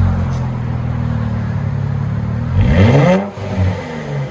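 Infiniti Q50 S 3.0 twin-turbo V6 on a straight-pipe exhaust with mufflers and resonators deleted, idling with a deep steady note, then blipped once about two and a half seconds in, the revs rising and dropping quickly back to idle.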